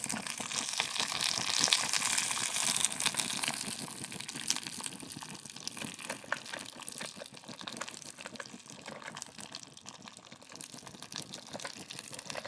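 A fire burning the grime off a lawnmower's differential, crackling and sizzling with many small pops. It is loudest in the first few seconds, then slowly dies down as the fire burns out.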